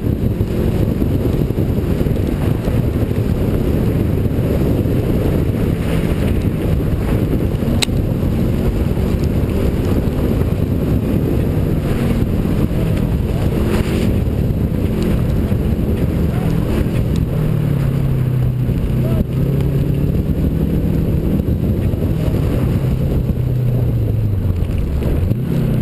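Subaru rally car's turbocharged flat-four engine at full effort on a dirt stage, its revs rising and falling repeatedly as it accelerates and shifts gears, with a few sharp ticks and knocks.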